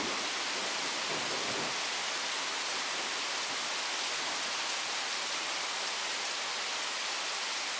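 Steady rain falling in a thunderstorm, an even hiss of rain on surfaces.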